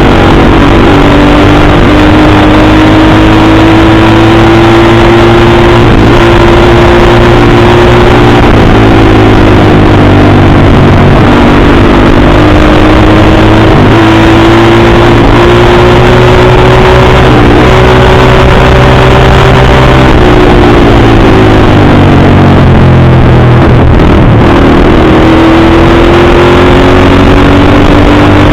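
Dirt bike engine running very loud under way, its pitch climbing slowly as it pulls, then easing off and dropping briefly three times (about ten, twenty and twenty-four seconds in) before climbing again.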